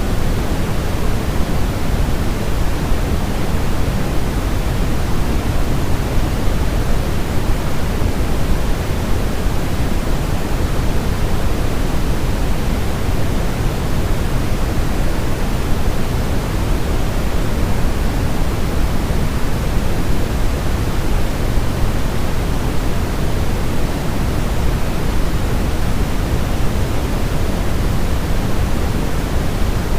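Steady, unchanging baby-sleep white noise, a constant hiss weighted toward the low end, meant to imitate the sound of the womb.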